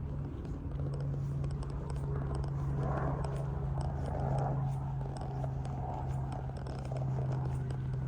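Boat engine running with a steady low hum and a deep rumble beneath it.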